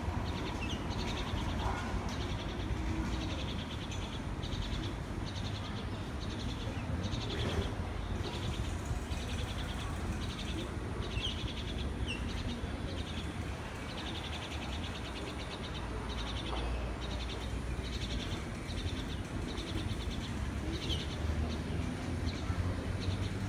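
Birds calling in short, trilled chirps repeated about once a second, with a few thin single chirps between, over a steady low background rumble.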